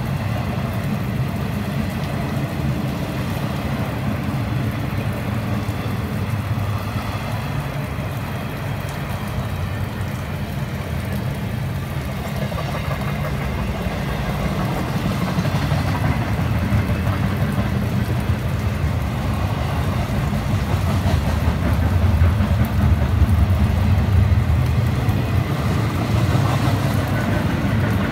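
Florida East Coast Railway double-stack intermodal freight train rolling past, a steady low rumble of wheels on rail that grows louder about two-thirds of the way through.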